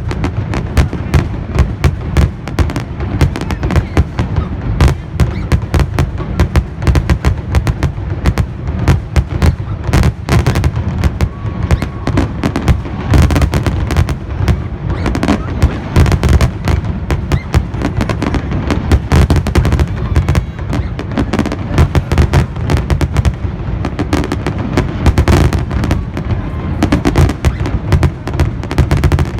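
A loud, continuous barrage of New Year fireworks, with overlapping bangs going off many times a second.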